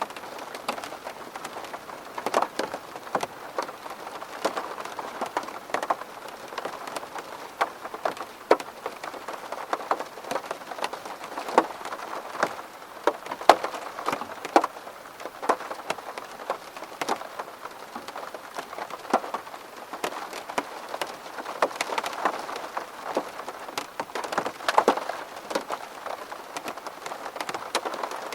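Rain falling steadily on a window: an even hiss with many sharp drop taps scattered throughout.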